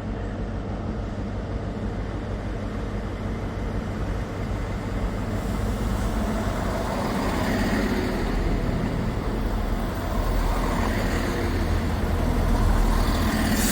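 Diesel train running at the station, a steady low engine hum that grows louder over the seconds.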